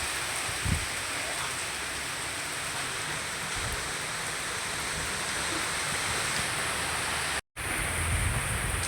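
Steady rush of heavy cyclone rain and wind, with a few brief low thumps. The sound cuts out for a moment near the end.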